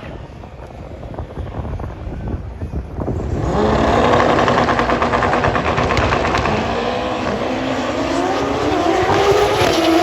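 Drag-racing motorcycle engine accelerating hard down the strip. It comes in loud about three and a half seconds in, its pitch climbing, dropping at a gear change and climbing again.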